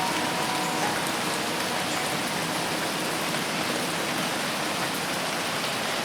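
Dense rain falling steadily on forest foliage: an even, unbroken hiss of many drops. A faint held tone trails off about a second in.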